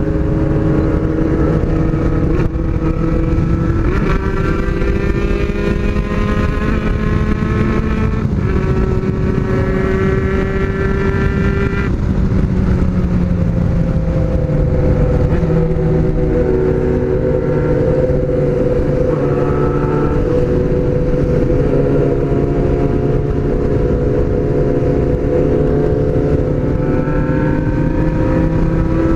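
Honda CBX750F motorcycles' inline-four engines running steadily at road speed, more than one engine heard at once, the engine pitch shifting up and down several times with throttle and gear changes.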